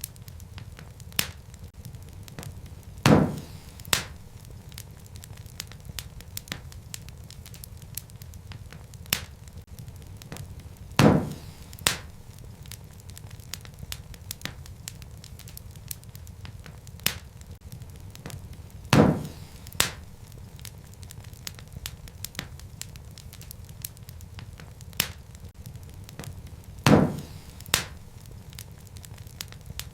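Wood fire burning in a fireplace: a steady low rumble with constant small crackles and, about every eight seconds, a loud sharp pop followed by a second pop under a second later.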